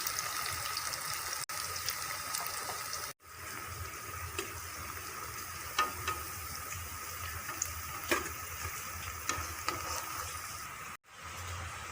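Banana-flower pakoras frying in hot oil: a steady sizzle with scattered sharp crackles, cutting out briefly twice.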